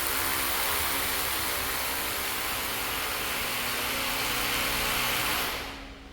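A motor-driven machine running steadily with a loud hiss over a steady hum, stopping about five and a half seconds in.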